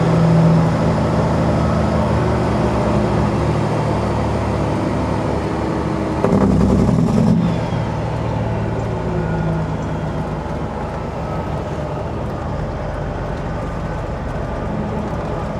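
Peterbilt 379 semi truck's diesel engine running as it pulls through a tight right turn. It swells louder for about a second around six seconds in, then settles a little lower.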